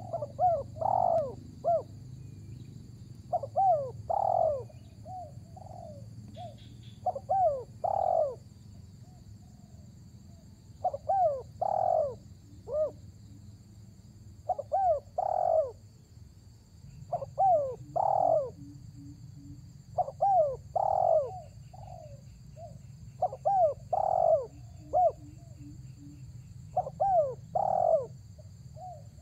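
Spotted dove (tekukur) cooing its calling song: a short phrase of a few clipped, bending notes with one louder note, repeated about every three to four seconds, nine times.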